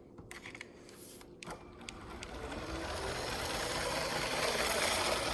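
A few light clicks, then a LEGO Power Functions train's motor and wheels whirring and clattering along plastic track, growing steadily louder as the train comes closer.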